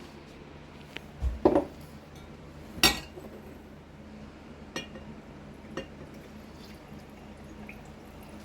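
Glass jars and kitchen utensils clinking and knocking as strained chicken stock is poured into the jars. A double knock comes about a second and a half in and the loudest knock about three seconds in, followed by two lighter clinks.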